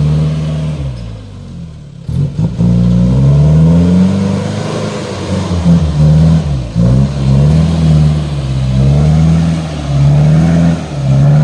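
Car engine revving up and down repeatedly, its pitch rising and falling about every second or two, with a brief drop in level about two seconds in.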